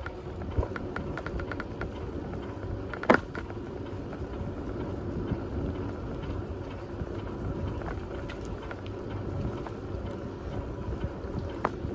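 A bicycle rolling along a path: steady tyre rumble with wind on the microphone and small rattling clicks, one sharp click about three seconds in and another near the end.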